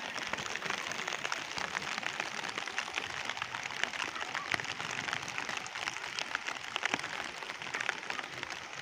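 Steady rain falling, a dense even patter of many small drop ticks.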